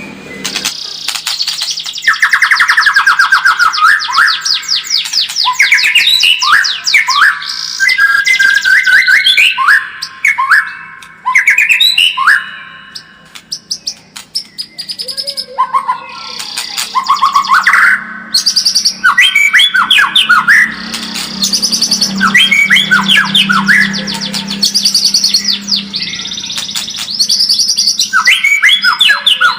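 White-rumped shama singing loudly in long runs of fast trills and whistled phrases, with a short lull about halfway through.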